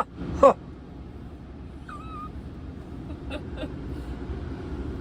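Steady low rumble inside a car cabin, with two short squeaky yelps near the start and two faint clicks about three and a half seconds in.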